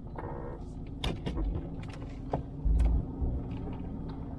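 A car rolling slowly with its engine running, heard from inside, with a steady low hum. Several sharp clicks come through, and low thumps about three seconds in.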